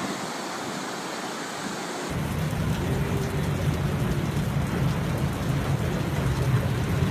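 Steady rushing noise of heavy rain. About two seconds in it changes abruptly to a louder storm sound with a deep continuous rumble under the rain.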